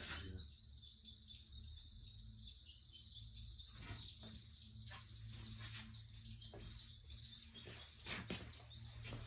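Faint outdoor background: a steady high-pitched trill under a low hum, with a few scattered light clicks and knocks.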